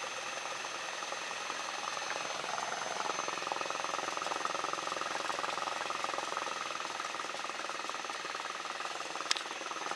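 Cessna 172 Skyhawk's piston engine running steadily at low power, heard from inside the cockpit, with one short click near the end.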